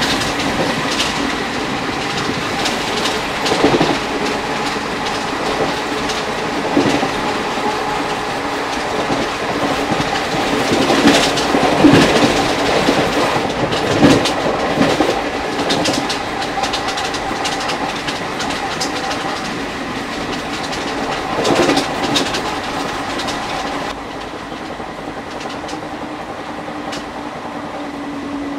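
ICF passenger coach running at speed on the track: a steady rolling rumble and hum with wheels clicking and clattering over rail joints, loudest in a burst of knocks about halfway through. It turns quieter and duller near the end.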